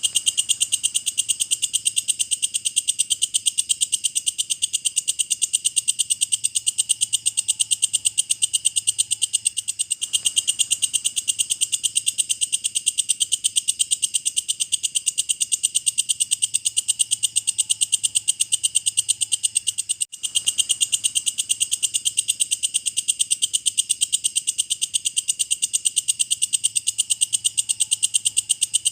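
Walang kecek, a bush cricket, calling: a continuous high-pitched trill of rapid, even ticks, with one brief break about twenty seconds in.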